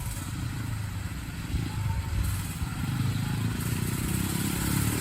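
Small four-stroke mini dirt bike engine running steadily, a Honda CRF50, with a buzzing hum that grows slightly louder near the end.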